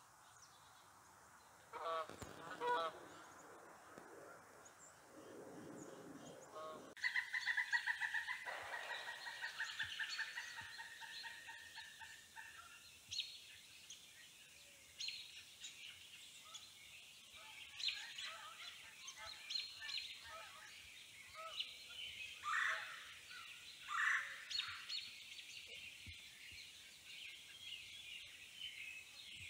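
Wild birds calling and singing: a few low, honk-like calls in the first seconds. After a sudden change about seven seconds in come a rapid trill lasting several seconds and scattered high chirps.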